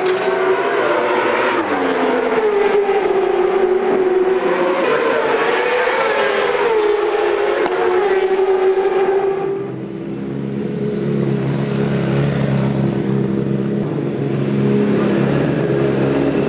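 Racing superbike engines revving high on the track for the first nine seconds or so, pitch wavering. They then give way abruptly to the lower, steady running note of a BMW S1000RR inline-four superbike's engine.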